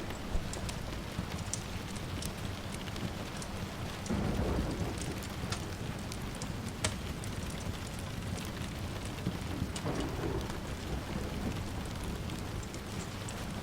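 Steady rain with distant thunder rumbling low, swelling about four seconds in and again near ten seconds, with scattered sharp clicks.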